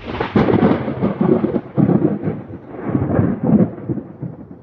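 A rolling peal of thunder: a loud rumble that swells and falls back in several surges, then dies away near the end.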